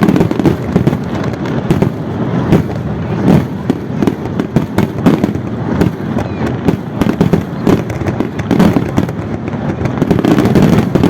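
Fireworks display: a dense, continuous run of booms and crackling bursts, one after another with hardly a gap.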